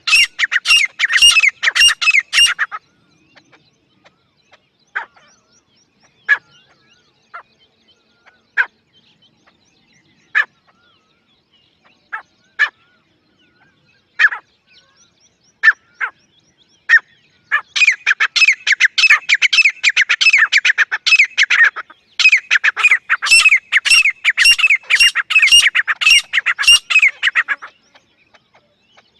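Grey francolin (dakhni teetar) calling: a run of rapid, loud repeated notes at the start, a few scattered single notes, then two long runs of rapid repeated calls in the last third.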